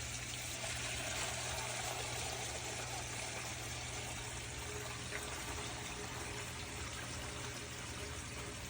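Water-powered backup sump pump running, a steady rush of water as it discharges and draws down the pit, with a low steady hum underneath.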